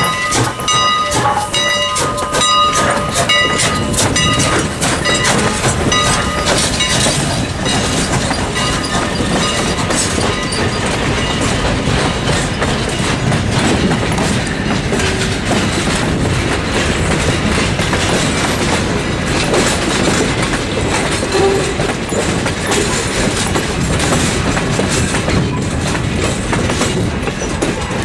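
Steam-hauled train cars rolling past, wheels clicking over the rail joints in a steady clickety-clack. A steam whistle's tones fade out in the first few seconds.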